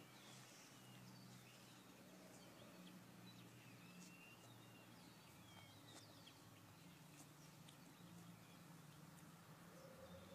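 Near silence, with faint, scattered bird chirps and a low steady hum.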